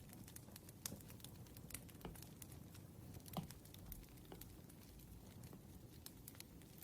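Faint crackling of a wood fire: irregular pops and snaps, a few louder ones among many small ticks, over a low steady rumble.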